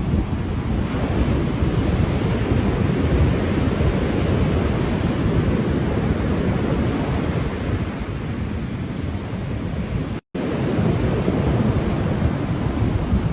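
Ocean surf: waves washing in a steady, dense rush. The sound cuts out for a split second about ten seconds in, then carries on.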